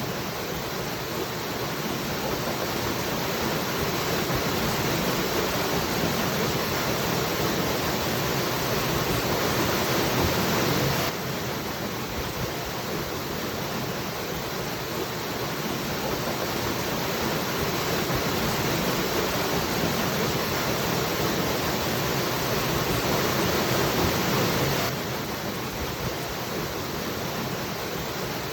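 Waterfall: a steady rush of falling water. It swells slowly and drops back suddenly twice, about 14 seconds apart, the same stretch repeating.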